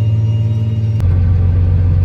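Tractor engine droning steadily, heard from inside the cab, with a strong low hum. About a second in there is a sharp click, and the drone carries on slightly lower in pitch.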